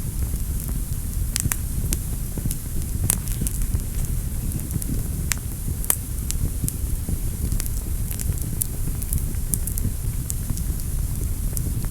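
Wood fire crackling in a fireplace: a steady low rumble of the burning fire with frequent sharp crackles and pops, the loudest pops about 3 and 6 seconds in.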